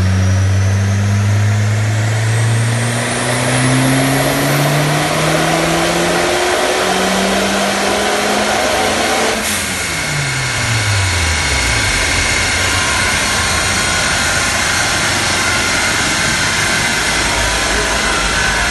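Turbocharged 1.8-litre 20-valve four-cylinder engine in a full-throttle pull on a chassis dynamometer. The revs climb steadily for about nine and a half seconds with a rising high whine. Then the throttle snaps shut, the revs fall away, and a steady rushing noise is left as the car coasts down on the rollers.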